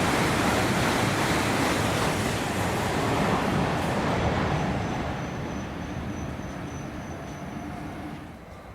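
Shinkansen bullet train passing through the station at high speed: a loud rushing roar that fades away over the second half as the train recedes.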